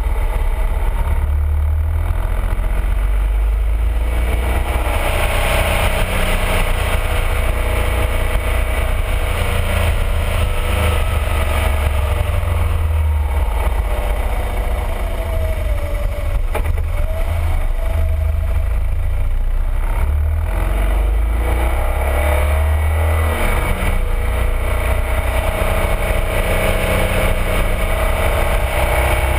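BMW R1200RT motorcycle's boxer-twin engine running on the move, its note rising and falling several times with the throttle, over a heavy low rumble of wind on a fairing-mounted camera.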